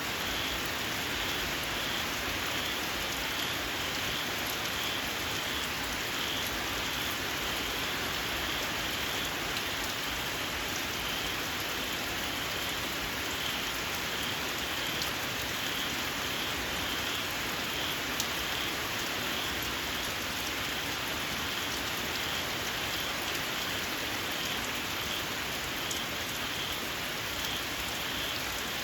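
Steady rain falling, with a chorus of small frogs calling over it in quick high-pitched pulses. The calls repeat at an even pace and give the squealing sound.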